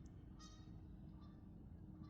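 Very quiet lakeside background: a low, even rumble with a few faint, short bird calls, the clearest about half a second in.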